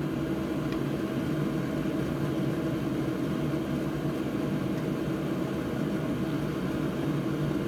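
Hot-air rework station blowing steadily, an even rush of air over a low hum, as the board is heated for desoldering the HDMI port.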